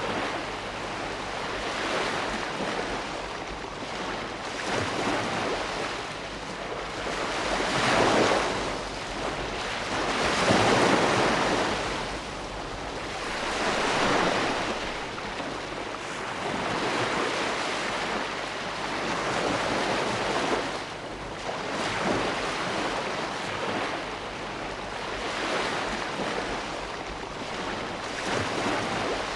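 Ocean waves breaking and washing on a shore, a continuous surf hiss that swells and ebbs every few seconds, with two stronger breakers about a third of the way in.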